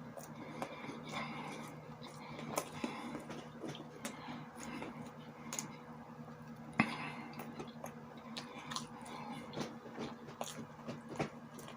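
Close-up chewing and biting of sausages and sauerkraut, with many small wet clicks and crackles. A sharp click stands out about seven seconds in, over a steady low hum.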